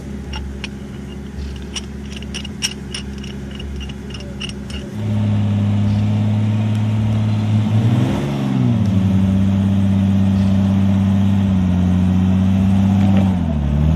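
An off-road 4x4's engine running steadily, with light clicking and rattling over the first few seconds. It gets louder about five seconds in and revs up and back down once around eight seconds.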